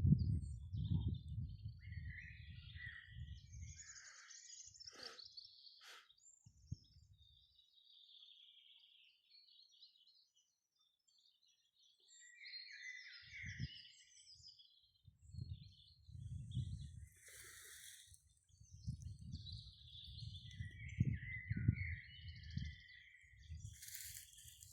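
Small songbirds singing and chirping. Irregular bursts of low rumble come and go under the birdsong: loud at the start, gone for a quiet stretch in the middle, then back from about halfway.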